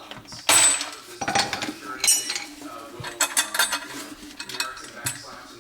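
A series of sharp metallic clinks and knocks from handling the metal garbage disposal and tools, some ringing briefly; the loudest comes about half a second in.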